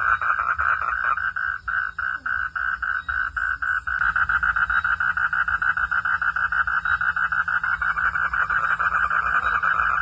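Frogs calling at night: a dense chorus of fast, evenly repeating pulsed calls, growing louder about four seconds in.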